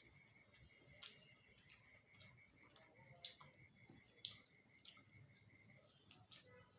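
Faint, irregular wet clicks of someone chewing food with mouth and lip smacks, over a faint steady high-pitched hum.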